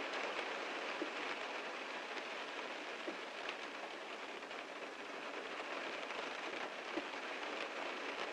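Heavy rain falling steadily on a car, a constant patter with scattered louder drop impacts every second or so.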